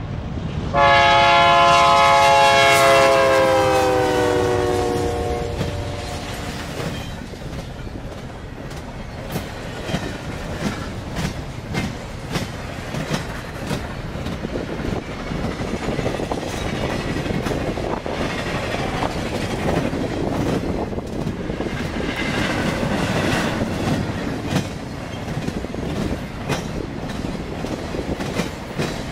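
BNSF freight locomotives sounding a multi-note air horn: a blast cuts off right at the start, then a long loud blast begins about a second in, its pitch dropping as the locomotives pass, and fades out by about six seconds. Then the intermodal train's stack cars and trailer flatcars roll by with a steady rumble and a regular clickety-clack of wheels over the rail joints.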